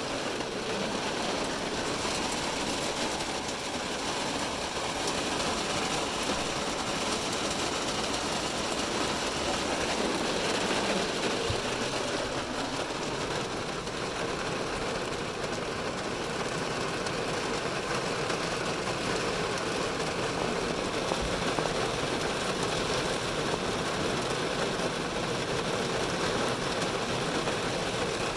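Heavy rain falling on a car's roof and windows, heard from inside the car as a steady, dense patter.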